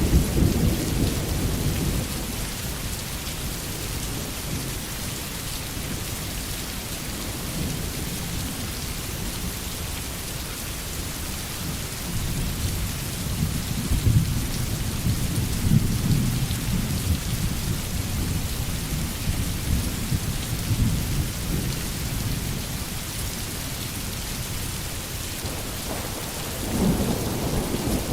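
Steady rain pattering on a tin roof, with rolling thunder rumbling low at the start, swelling again through the middle, and rising once more near the end.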